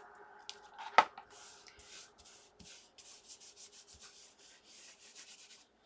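A sharp click about a second in, then a glue stick rubbed back and forth over paper in short, quick scratchy strokes, about three a second.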